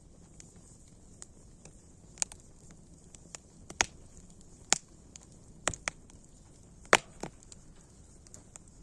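Wood fire crackling: sharp, irregular pops and snaps over a faint steady hiss, the loudest snap a little past the middle.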